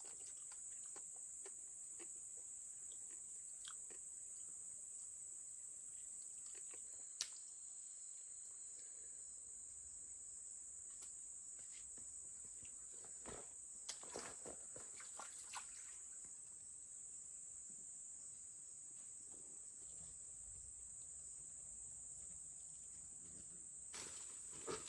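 A steady, high-pitched chorus of forest insects, with occasional faint clicks and rustles: a sharper click about seven seconds in and a few more around the middle.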